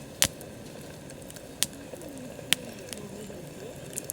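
Wood campfire crackling, with three sharp pops from the burning wood and a few fainter snaps.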